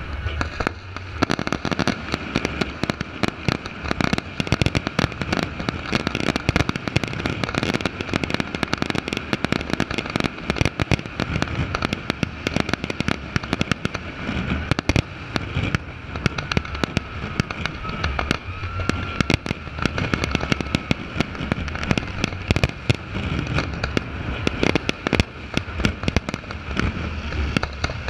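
Aerial fireworks display: a dense, continuous barrage of shell bursts, bangs and crackle, many reports a second without a break.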